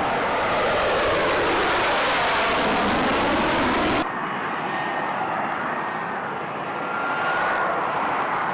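Aircraft engine noise: a loud rushing roar for about four seconds, cut off abruptly and replaced by a quieter running engine with a faint high whine.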